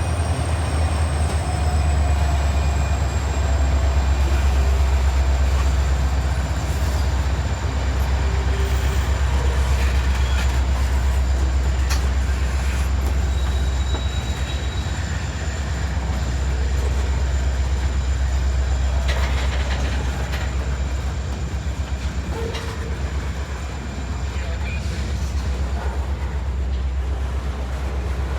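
Freight train cars rolling past with a steady heavy low rumble on the rails. A thin high wheel squeal drops slightly in pitch in the first few seconds, then holds.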